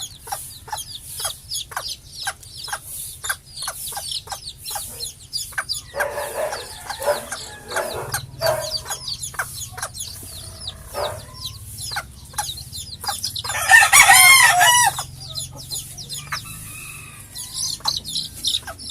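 Bantam chicks peeping rapidly and constantly, with hens clucking around six to eight seconds in. About fourteen seconds in a bantam rooster crows once, for about a second, the loudest sound.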